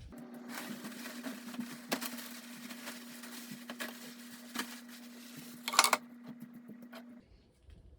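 A small machine running with a steady hum, with irregular clicks and rattles over it, the loudest about six seconds in; it cuts off abruptly about seven seconds in.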